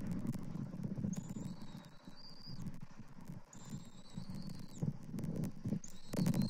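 A bird gives thin, high, whistled calls three times, each about a second long with a slight waver. Under them runs an irregular low knocking and rustling.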